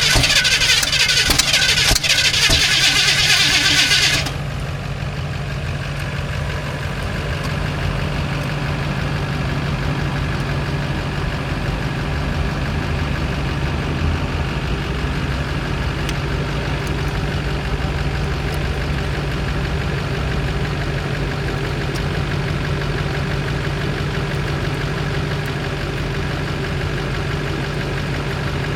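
Truck engine cranking on the starter for about four seconds, then catching and idling steadily.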